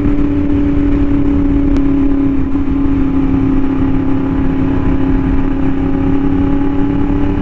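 Yamaha R1M's crossplane inline-four running through an SC Project aftermarket exhaust at a steady cruise, its engine note holding a constant pitch.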